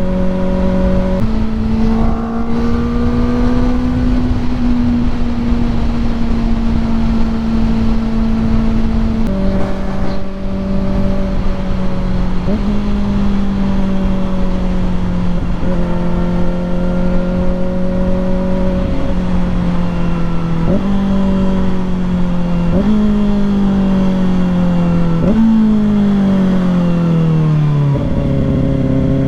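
Kawasaki ZX-4RR inline-four engine running at steady mid revs under way, with a few sudden steps in pitch at gear changes. Near the end come three downshifts, each a quick upward blip of revs from the auto-blipper, then the revs sliding down as the bike slows.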